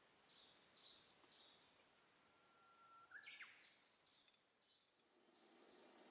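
Near silence with faint birdsong: a bird repeats short high notes, about two a second, with a longer whistled phrase that sweeps in pitch in the middle. A soft hiss builds near the end.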